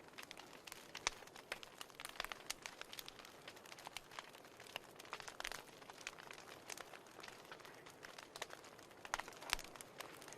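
Wood fire burning in a fireplace: irregular crackles and sharp pops over a soft hiss, a few louder snaps about a second in and near the end.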